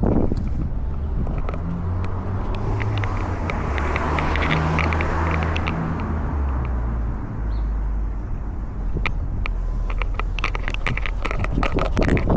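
A car going past: a low engine hum with tyre noise that swells to a peak about four to five seconds in and fades. From about nine seconds on, close rustling and clicking takes over.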